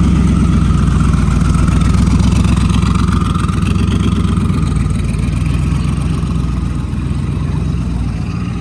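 A car engine running close by: a loud, steady, deep rumble with a fast even pulse, easing off slightly near the end.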